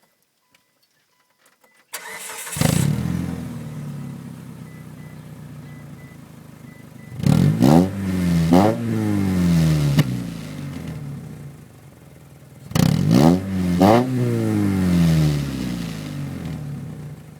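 2004 Mitsubishi Outlander's engine cranked by the starter and catching about two seconds in, then idling through its aftermarket DC Sports exhaust tip. It is revved twice in quick succession, twice over, about five seconds apart, each time dropping back to idle.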